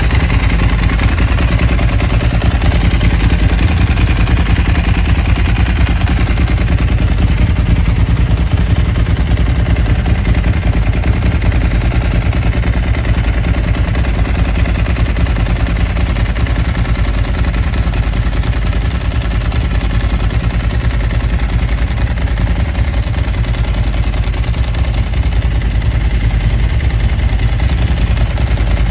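Ducati 999's L-twin engine running steadily, with no revving up or down.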